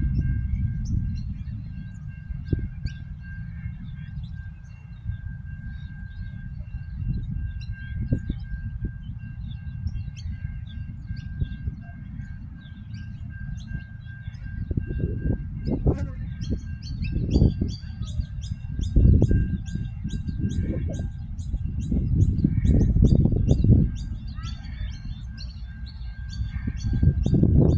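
Birds chirping in quick repeated calls, busiest in the second half, over a low rumble that swells and fades. A faint steady high tone runs underneath.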